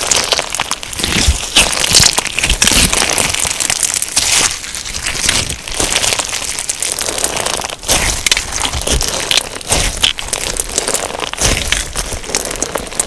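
Crunchy slime packed with sugar beads being squeezed and kneaded, giving a dense, continuous run of crackling crunches and small pops.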